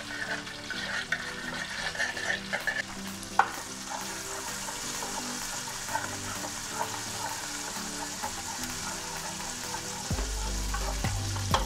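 Tomato paste frying in hot butter and olive oil in a pot with a steady sizzle, stirred and scraped around with a spoon and then a slotted spatula, with light clicks of the utensil on the pot and one sharp knock about three seconds in.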